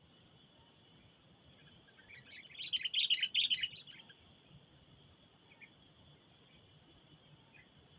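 A small songbird chattering in a rapid burst of high chirps about two to four seconds in, then a few isolated chirps. A steady high hum runs underneath.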